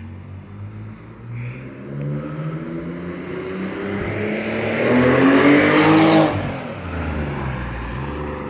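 Alfa Romeo 156's 3.0 Busso V6 with an aftermarket sports exhaust accelerating hard, its note rising in pitch for about five seconds to a loud peak. The pitch and level then drop suddenly a little after six seconds in.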